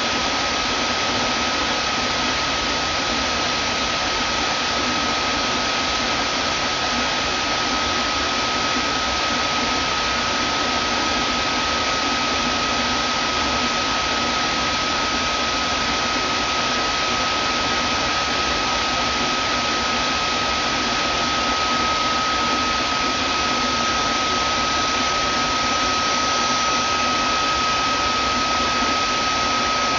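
Vacuum cleaner running steadily: an even rushing hiss with a constant high whine.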